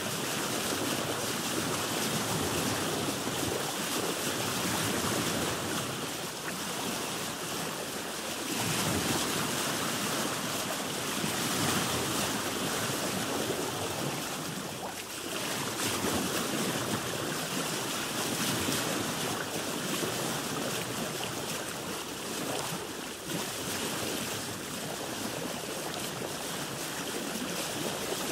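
Sea water sloshing and splashing against a boat's hull, swelling and easing every few seconds, with some wind.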